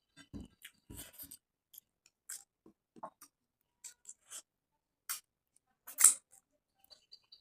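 Close-miked eating sounds: wet chewing and lip smacks in scattered short clicks, the sharpest about six seconds in.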